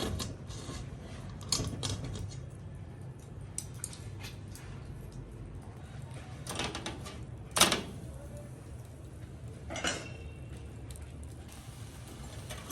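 Cooking utensils clinking and clattering now and then, the loudest knock about seven and a half seconds in, over a low steady hum.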